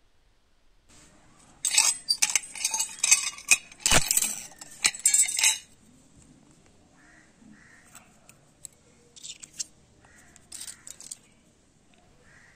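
Metal parts of a taken-apart microwave magnetron clinking and clattering as they are handled and set down on a hard surface: a busy run of sharp clinks for about four seconds, then a few lighter clinks.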